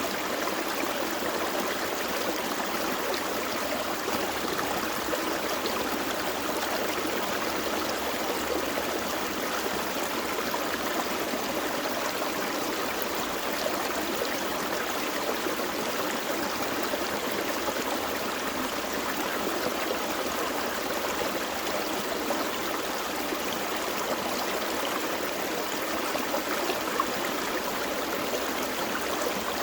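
Gentle forest stream flowing and babbling over stones, a steady, even rush of water.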